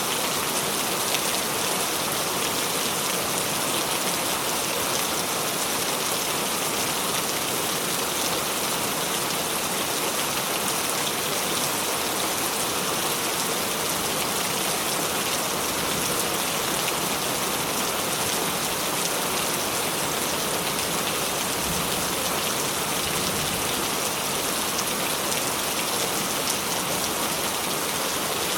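Rain falling steadily: an even hiss of countless drops that neither swells nor fades.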